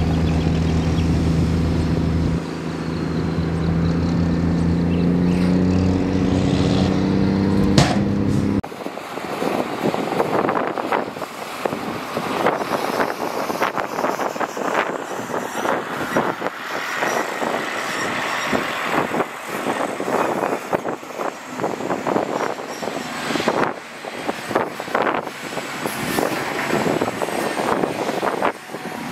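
Heavy diesel engine of a dump truck or bulldozer running steadily, rising slightly in pitch after about six seconds, with a sharp click near eight seconds. At about eight and a half seconds the sound changes abruptly to a rough, rattling, scraping clatter of irregular knocks.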